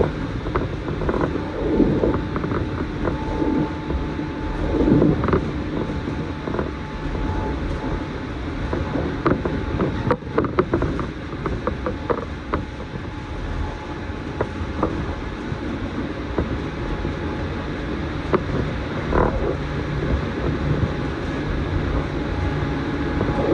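JR commuter train running between stations, heard from inside the carriage: a steady rumble of wheels on rail with faint steady hums, and frequent short creaks and clicks from the car body and track.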